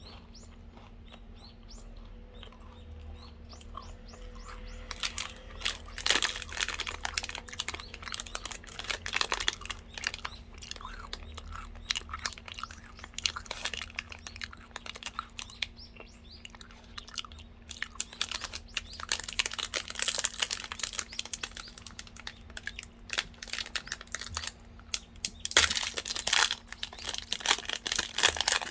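Close-miked chewing of a Lotte Crunky chocolate bar, milk chocolate with crisped malt puffs: dense crunching and crackling that grows louder in bursts, about six seconds in, around twenty seconds and near the end.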